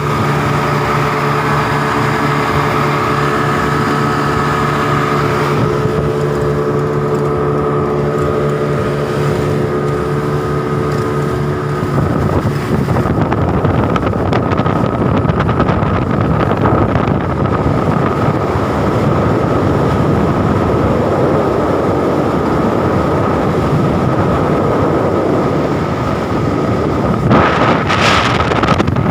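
Motorboat engine running with a steady hum. About twelve seconds in, the hum gives way to a rushing noise of water and wind on the microphone, with a louder gust near the end.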